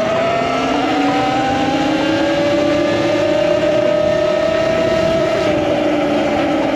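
Talaria MX5 electric dirt bike under way: a steady whine from its motor and chain drive climbs slowly in pitch as it speeds up, then eases off a little near the end, over road and wind noise. The rider suspects the bike is louder than it should be.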